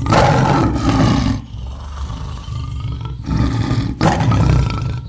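Loud, rough roaring growl from a large animal, strongest in the first second and a half, easing off, then swelling again about four seconds in.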